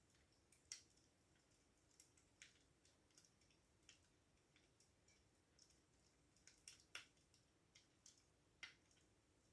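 Faint, sparse computer keyboard typing: about a dozen separate key clicks at an uneven, unhurried pace, a few of them sharper than the rest.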